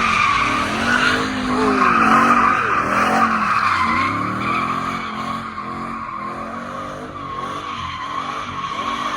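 A 5.0-litre V8 car drifting: tyres squeal steadily while the engine's revs rise and fall over and over, about once a second.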